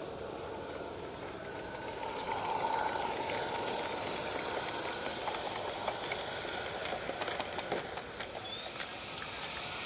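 Small live-steam garden-railway locomotive hissing steam, the hiss swelling louder a couple of seconds in. It is followed by a run of light clicks, like wheels over rail joints.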